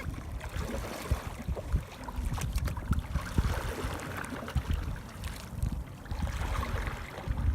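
Wind buffeting the microphone in uneven gusts, over a faint wash of water.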